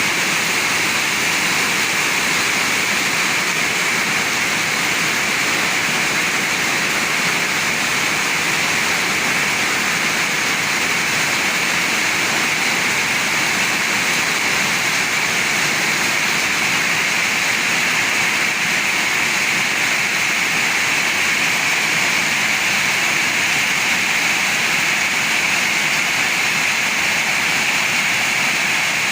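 Heavy rain falling in strong wind, a dense steady hiss with no breaks.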